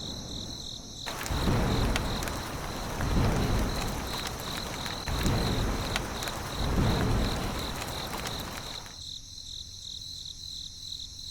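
Crickets chirping in a steady, even pulse, under a rushing noise that swells and fades about five times and stops shortly before the end.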